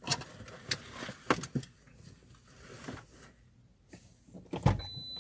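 A few scattered sharp clicks and knocks, with a faint steady high-pitched tone coming in near the end.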